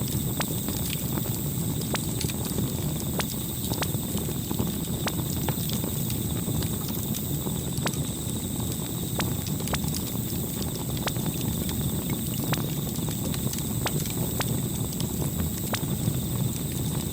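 Campfire burning: a steady low rushing with irregular, sharp crackles and pops of the burning wood.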